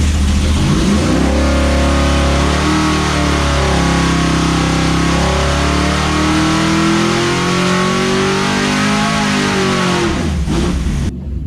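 Mopar 400 big-block V8, with a Holley Street Dominator intake and a 750 AED carburetor, making a wide-open-throttle pull on an engine dyno. Its note climbs steadily in pitch for about ten seconds, then drops back and cuts off sharply near the end.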